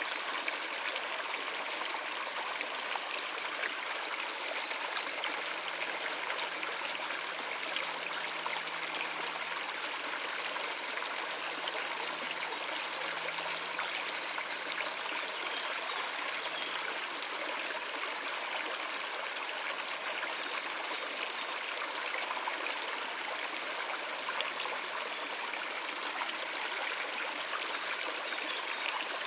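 Stream water running over rocks: a steady, unbroken rush.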